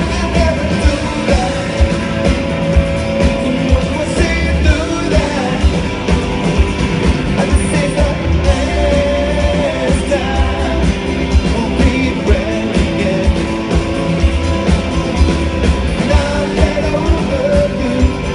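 Live rock band playing at full volume, with a steady drumbeat under sustained guitar and other instruments, during a stretch of the song with no clear sung words.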